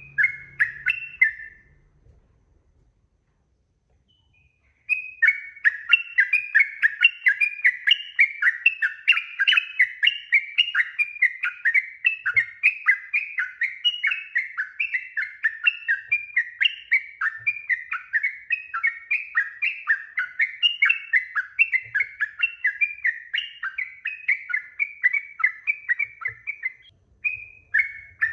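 Sooty-headed bulbul (trucukan) singing. A short phrase, a few seconds of silence, then a long unbroken run of quick whistled notes at about three a second, the long repeated song that bird keepers call ropel panjang, with one brief pause near the end.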